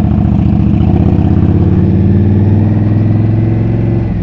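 Indian Scout's V-twin engine pulling under acceleration, its note rising slowly, then falling away abruptly near the end as the throttle closes or a gear is changed.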